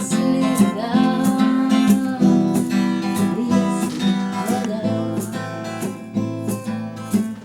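Acoustic guitar strummed in a steady rhythm, playing the song's accompaniment with no singing.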